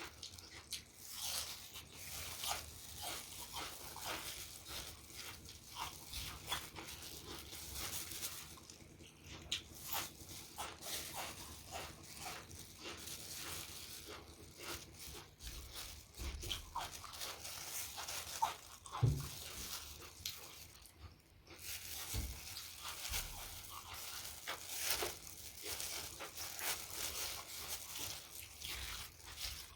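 Close-miked chewing: a steady run of wet mouth clicks, smacks and crunches as food is bitten and chewed.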